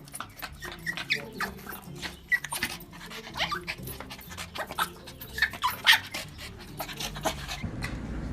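Dog whining in short, high-pitched cries, many in quick succession, which stop near the end.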